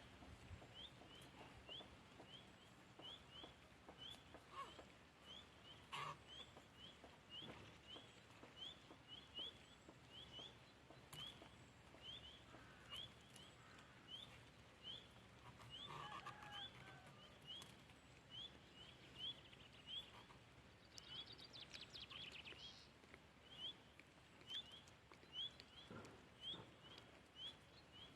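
Faint, quiet outdoor background: a small creature's short rising chirp repeated steadily about twice a second, with a few scattered light clicks.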